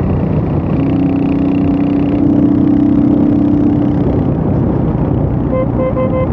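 Royal Enfield Hunter 350's single-cylinder engine running steadily while riding, heard from the onboard camera with wind noise. A repeating electronic beep starts near the end.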